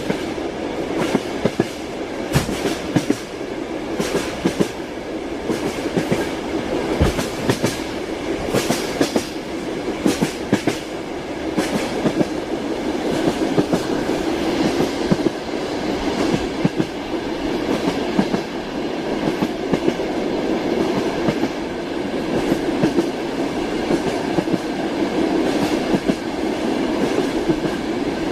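Train carriage wheels clacking over rail joints as the train runs along the track: a steady rumble with sharp clicks coming at irregular intervals.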